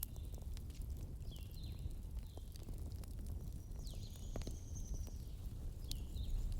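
Bonfire ambience: a steady low rumble of burning with scattered small crackles, and a bird chirping over it in short high notes that drop and then level off, several times.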